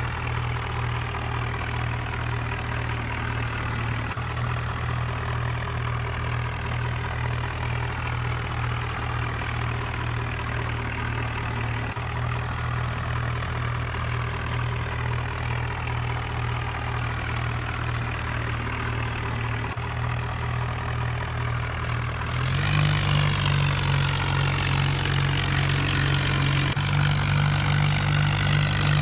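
Tractor engine running steadily at idle. About three quarters of the way in, the sound switches abruptly to a louder, brighter engine note.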